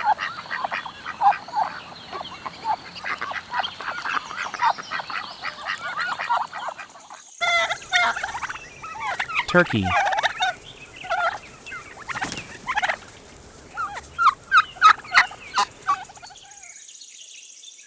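Ducks calling in a rapid run of short quacks for about the first seven seconds. After a sudden cut, turkeys gobble and call in irregular bursts until shortly before the end.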